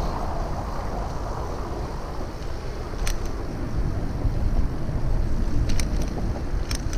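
Wind buffeting the microphone and rumble of a bicycle ride over city streets, with a few short sharp clicks.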